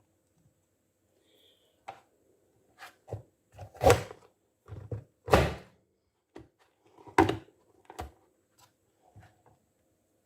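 Hand-press vegetable dicer being pushed down and opened: a series of irregular plastic clunks and thuds, the loudest about four and five and a half seconds in.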